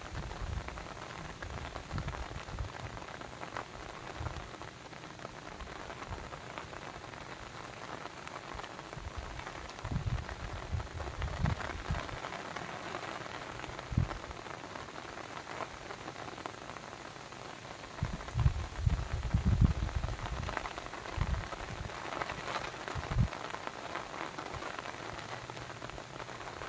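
Steady rush of falling or running water, with a few brief low rumbles rising out of it.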